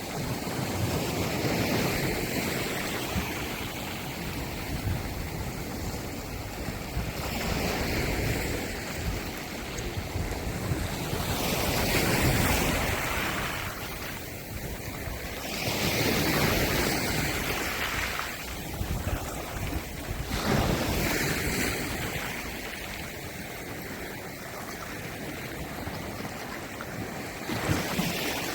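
Sea waves breaking and washing in, swelling louder every few seconds, with wind buffeting the microphone.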